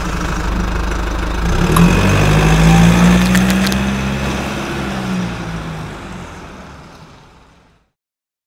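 Car engine revving sound effect over an animated logo intro, with a few sharp crackles. The engine note swells about two seconds in, holds, then fades out over the last few seconds.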